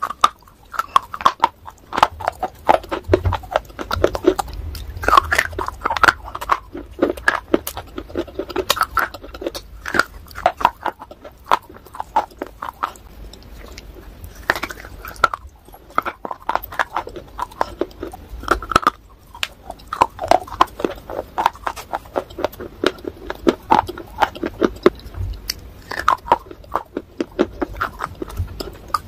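Close-up eating sounds of grey shale bars being bitten and chewed: crisp, irregular crunching and crackling, with brief pauses between bites.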